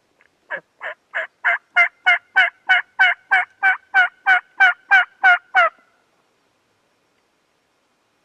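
Turkey yelping: a run of about sixteen evenly spaced yelps, about three a second, growing louder over the first few notes and then holding steady.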